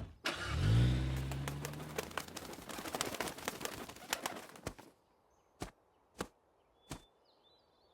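Cartoon sound effects: a low falling rumble under a dense flurry of rapid fluttering and clicking lasting about four and a half seconds, then three separate short taps.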